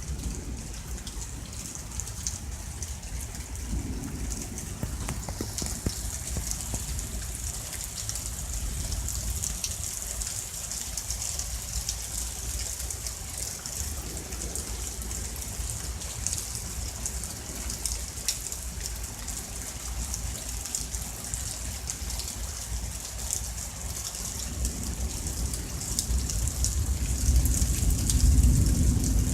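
Heavy rain falling steadily in a thunderstorm, a constant hiss of drops, with a low rumble that builds and grows louder near the end.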